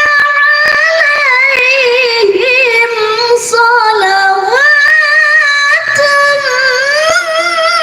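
A woman's voice reciting the Quran in the melodic tilawah style, holding long, ornamented high notes whose pitch wavers and slides, with a brief dip lower near the middle.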